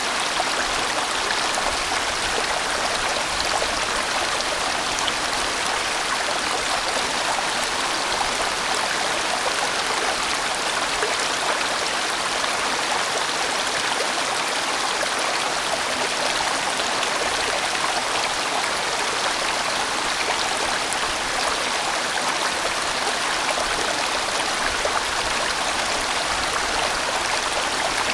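A large mountain stream rushing steadily over rocks as it winds through a valley, a constant, unbroken sound of flowing water.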